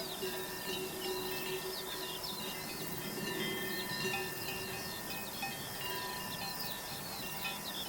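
Many small birds chirping in quick short calls, over a few steady held tones like chimes or a soft music bed.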